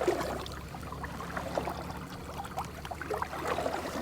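Paddling a canoe: small irregular splashes and drips of water from the paddle and hull, over a low steady rumble.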